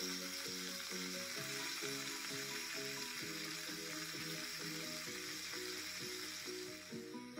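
Chicken pieces frying in oil in a cast-iron skillet with a steady sizzle that fades near the end. Background music with a melody of short notes plays throughout.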